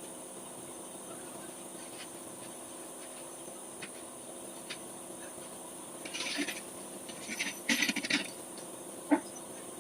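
Light metallic clinks and rattles of metal parts being handled during engine work: a short scrape about six seconds in, a cluster of clinks a little later, and one sharp click near the end.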